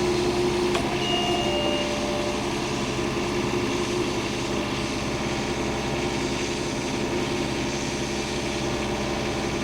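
An engine running steadily. A few short, steady whining tones sound about a second in.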